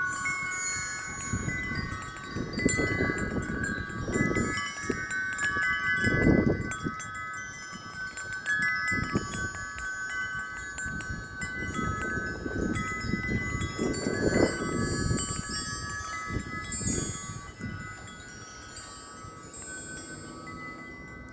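Wind chimes ringing steadily in strong, gusty wind, with low rumbles of wind swelling every few seconds.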